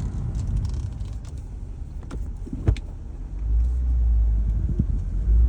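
Interior sound of a 2007 BMW 328i wagon with its inline-six engine driving with the windows down: steady engine and road noise, a few sharp clicks a couple of seconds in, then a deep rumble that grows louder about halfway through.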